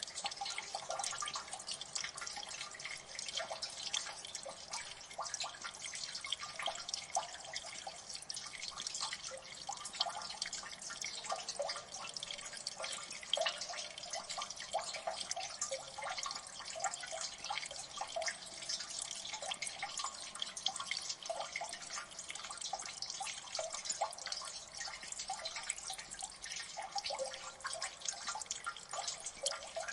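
Water dripping in a gully: a steady, dense patter of many small drops a second, plinking and splashing without a break.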